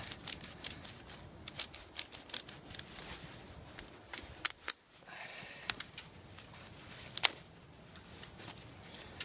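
A small stick being broken down to length by hand: a run of sharp, irregular clicks and cracks, with a brief rustle about five seconds in.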